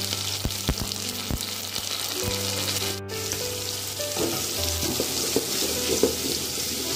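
Onions and freshly added chopped tomatoes sizzling in hot oil in an aluminium pot, with a few light clicks early on. From about four seconds in, a wooden spatula stirs and scrapes the pot.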